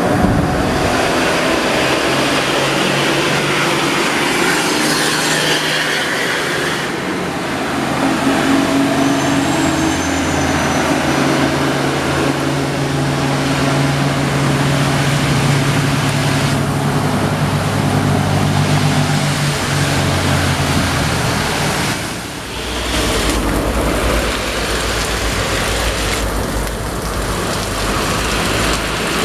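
Heavy diesel truck engine labouring steadily up a steep grade, with road and rain noise over it; the low engine note changes about two-thirds of the way through.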